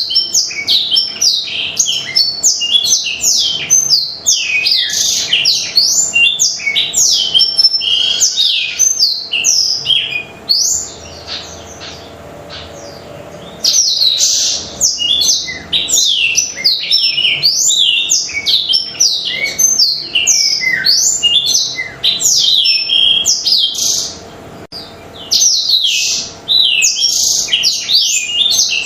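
Black-throated canary (blackthroat) singing a fast, continuous twittering song of rapid sweeping high notes. The song breaks off twice, once for about three seconds in the middle and once briefly near the end, then resumes.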